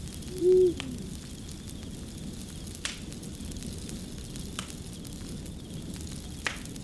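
Crackling fire: a steady low rush with a sharp pop every second or two. An owl hoots once about half a second in, the loudest sound.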